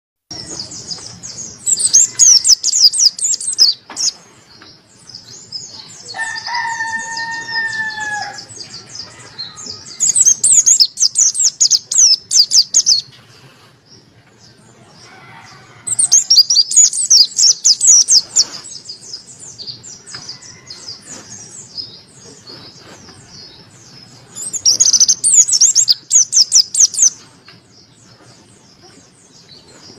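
Mountain white-eye (pleci Monty) singing in four loud bouts of rapid, high twittering, with softer chirps between them. About six seconds in, a lower, slightly falling call lasts a couple of seconds.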